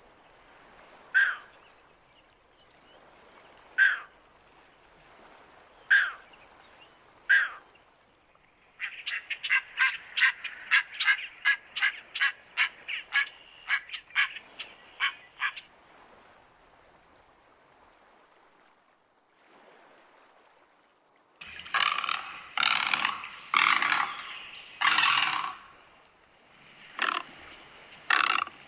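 Birds calling: single sharp calls every couple of seconds, then a fast run of about twenty notes at roughly three a second, and after a pause, louder harsh calls near the end. A faint, steady high-pitched hum runs underneath.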